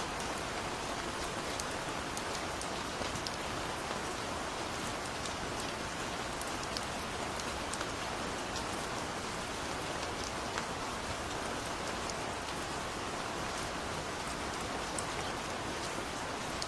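Steady gentle rain falling, with a continuous hiss and many small individual drops ticking throughout.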